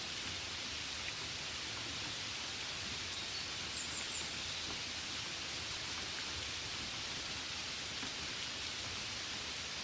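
Steady gentle rain, an even hiss with no single drops standing out, with a few faint high chirps about four seconds in.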